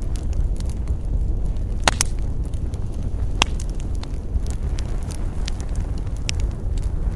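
Wood fire crackling, with sharp pops scattered throughout and two louder snaps, about two seconds and about three and a half seconds in, over a steady low rumble.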